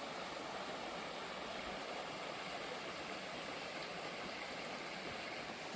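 Small spring-fed stream running over a tiny fall: a steady rush of flowing water.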